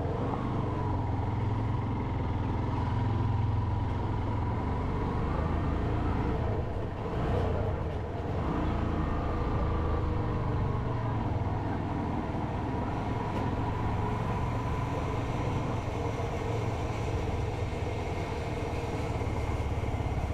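Motorcycle engine running steadily while riding, with road and wind noise. There is a brief dip in level about seven seconds in.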